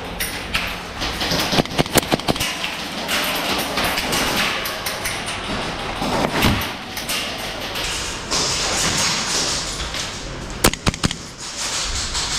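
Airsoft skirmish noise: a player's movement and gear rustle, broken by clusters of sharp cracks and taps, one about two seconds in and another near eleven seconds.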